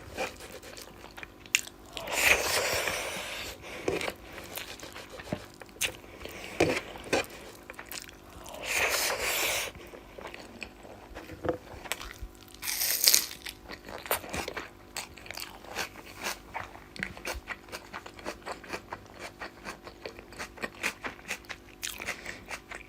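Close-miked eating of fish curry and rice: chewing with many small wet mouth clicks, and three louder stretches of crunching about two, nine and thirteen seconds in.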